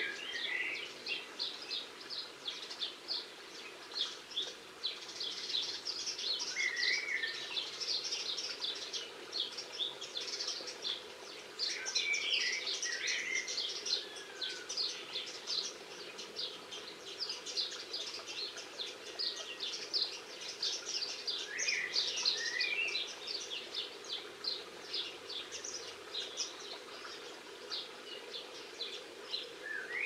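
Garden birdsong: dense, rapid high twittering and chirping throughout, with a short, lower whistled phrase that comes back every several seconds, over a faint steady hum.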